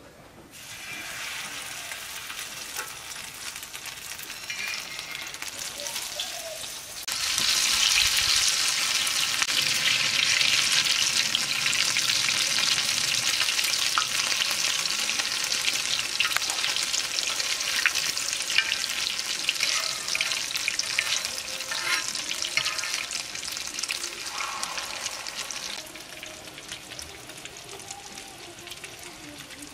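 Pumpkin flowers in egg batter sizzling as they fry in hot oil. The sizzle jumps louder about seven seconds in and drops back to a lower hiss near the end.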